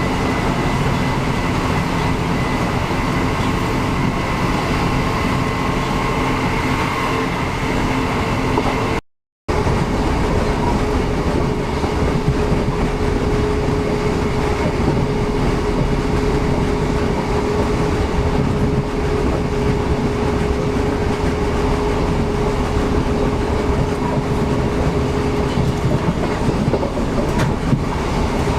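Passenger train running along the track: a steady rumble with a constant hum. The sound cuts out briefly about nine seconds in.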